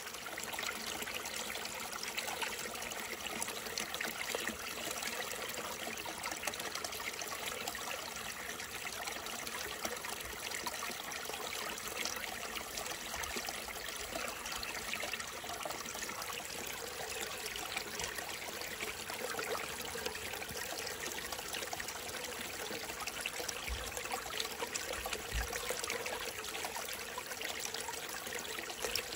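Small stream trickling and running steadily, an even wash of flowing water.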